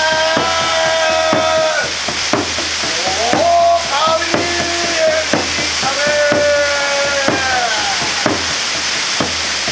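Waterfall pouring down with a steady rush and scattered splashing crackles. Over it, a voice chants long held notes, each sliding up into the note and lasting a second or so, several times.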